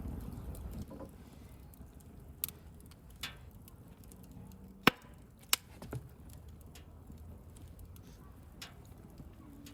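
Wood campfire crackling, with scattered sharp pops; the two loudest snap close together about five seconds in.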